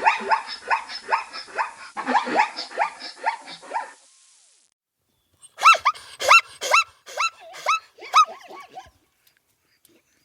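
Zebra barking calls: a rapid run of high yelping barks for about four seconds, then after a short pause a second series of about eight sharp yips.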